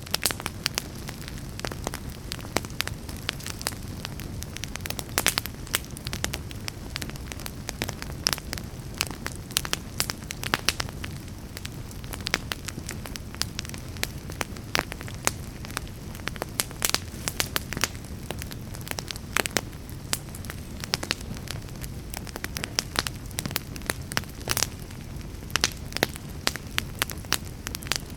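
Fire burning in a fireplace, crackling with frequent irregular sharp pops over a steady low rumble.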